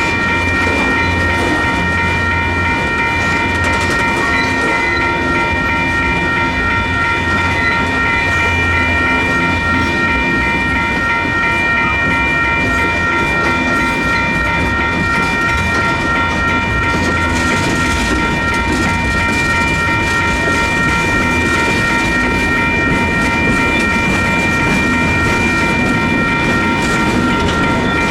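Freight cars of a slow-moving train rolling over a grade crossing, with steady wheel-on-rail rumble and clatter. Over it, the crossing's WCH electronic bells ring continuously, keeping up steady tones.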